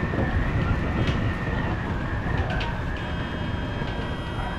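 Odakyu electric commuter train running at speed, heard from inside the front car: a steady low rumble of wheels on the track with a constant high whine, and a few light clicks.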